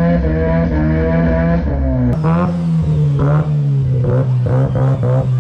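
Twin-rotor turbo engine of an FD Mazda RX-7 held at high revs in a skid, with a steady pitch. About two seconds in, the sound cuts to a slightly lower pitch, and the higher notes surge in and out several times.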